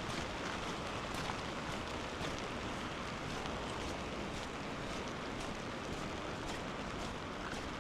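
Steady, even rushing of water, with faint clicks about once a second.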